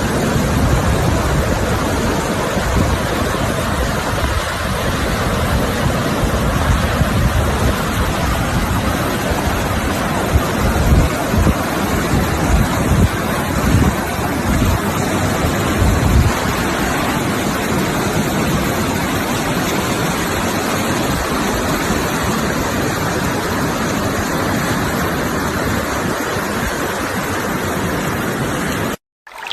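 Steady rushing of sea surf, with wind buffeting the microphone in irregular low rumbles. The sound cuts off suddenly near the end.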